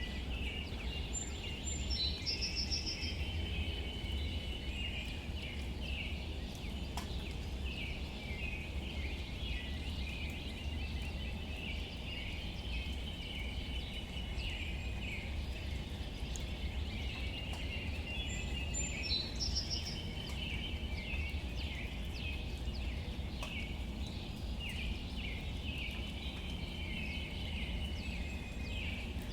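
Outdoor ambience of birds chirping in a continuous busy chatter over a steady low rumble, with a short call of quick repeated high notes about two seconds in and again near the twenty-second mark. Scattered faint ticks run through it.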